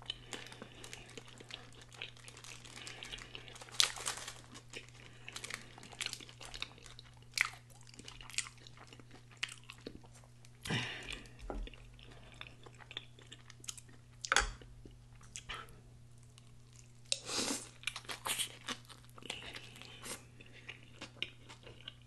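Close-miked mukbang eating: wet chewing and lip smacking on a saucy, cheese-covered burger and fries, in irregular short smacks, a few of them much louder.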